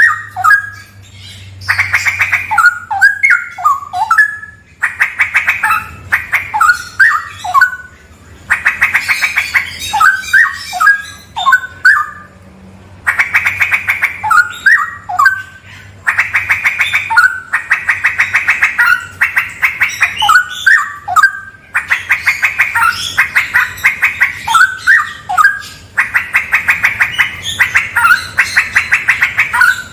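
Straw-headed bulbul (cucak rawa) singing loudly: repeated phrases, each a rapid rattling run followed by liquid, bubbling whistled notes, with a new phrase every few seconds.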